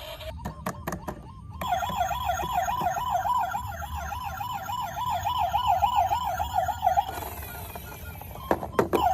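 A few clicks, then a toy vehicle's electronic siren warbling fast, about four times a second, for about five seconds before stopping abruptly. More clicks come near the end.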